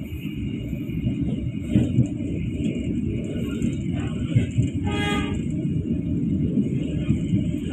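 Passenger train running on rails, heard from inside the coach: a steady low rumble of wheels and carriage. About five seconds in comes one short blast of the train's horn.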